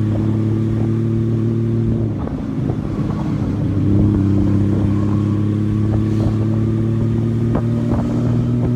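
Honda Valkyrie's flat-six engine running steadily while riding. Its note breaks up and dips briefly about two seconds in, then settles back to a steady pull at a slightly different pitch about four seconds in.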